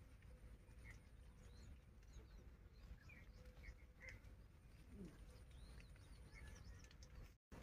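Near silence: faint, scattered bird chirps over a low steady rumble. The sound cuts out for a moment near the end.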